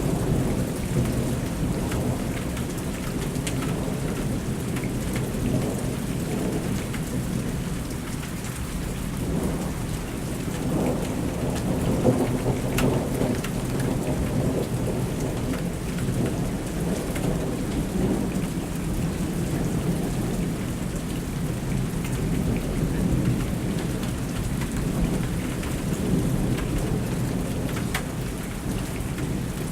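Thunderstorm: rain falling steadily with thunder rumbling low underneath, almost without pause.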